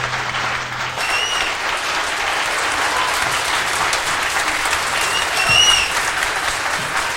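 An audience applauding at the end of a song. The last sustained music notes cut off about a second in, leaving steady applause.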